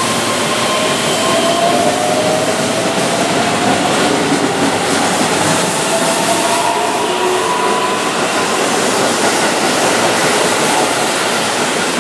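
Keihan 10000 series electric commuter train pulling out of a platform and passing close by. It makes a steady rumble of wheels on rail, with a faint motor whine that rises slowly in pitch as the train gathers speed.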